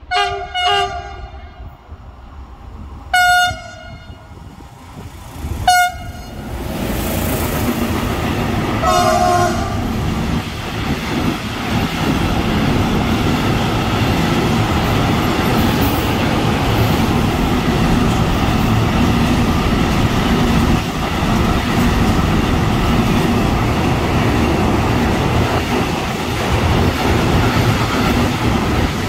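An electric freight train's horn sounds several short blasts as it approaches. From about six seconds in, a long intermodal freight train of container and swap-body wagons rolls through close by, with steady wheel-on-rail noise and clickety-clack.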